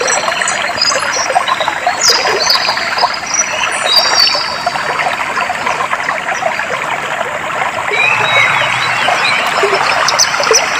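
Clear flowing water trickling steadily, with birds singing high whistled phrases and chirps over it, busiest in the first half.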